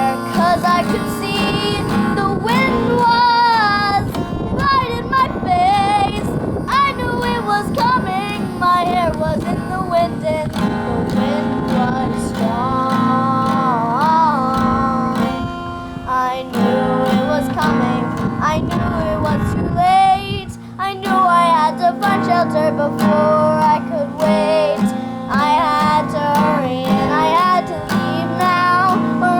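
A young girl singing a melody over acoustic guitar.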